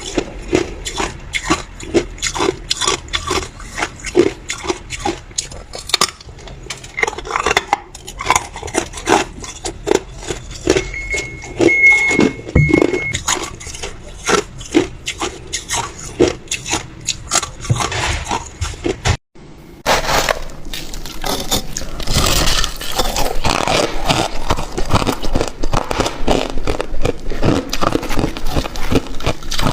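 A person biting and chewing ice close to the microphone, a rapid run of sharp crunches. The crunching stops briefly about two-thirds of the way through, then resumes denser and grittier.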